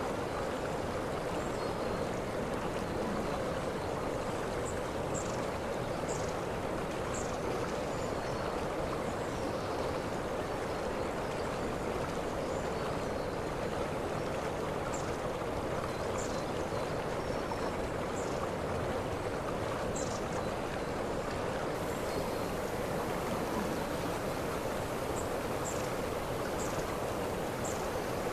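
Waterfall water rushing and splashing steadily, with brief high-pitched chirps now and then.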